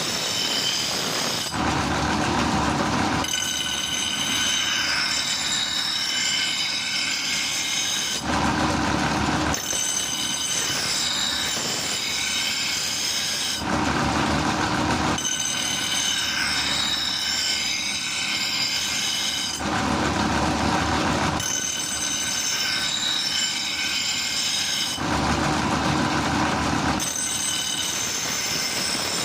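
Power grinder working steel, a high metallic squeal that gives way every five or six seconds to a couple of seconds of lower, rougher grinding noise.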